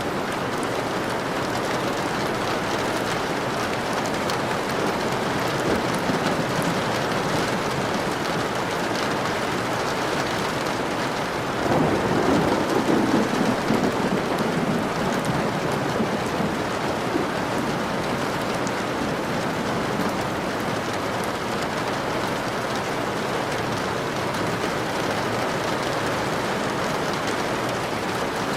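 Steady rain falling hard, with a low rumble of thunder swelling up a little under halfway through and fading over a few seconds.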